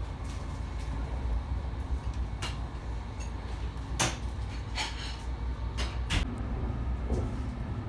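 Steady low rumble of a Finnish double-deck InterCity train running, heard inside the carriage. About six sharp knocks and clicks break in over it, the loudest about four seconds in.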